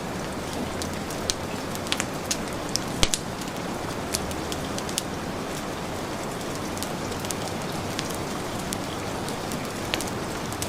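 Heavy rain falling steadily, mixed with a wood fire crackling, with scattered sharp pops; the loudest pop comes about three seconds in.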